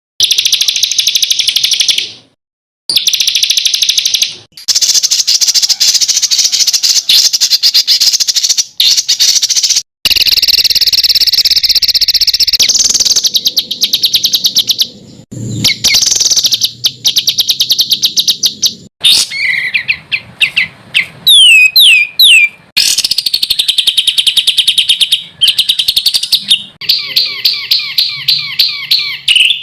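Edited songbird song of the fast, harsh 'tembakan' kind: long, very fast high trills and rapid repeated notes, spliced together with abrupt cuts and short gaps. Past the middle comes a run of quick downward-sweeping whistles, and near the end a rhythmic series of repeated notes.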